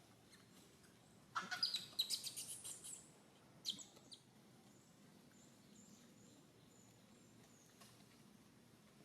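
A quick burst of rapid high-pitched chirping calls lasting about a second and a half, followed by two more short chirps.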